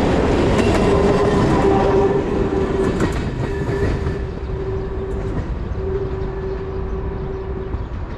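A long freight train's covered wagons rolling past and moving away, wheels clattering over the rail joints, the rumble fading steadily. A steady tone rides over it from the receding train, broken twice and stopping near the end.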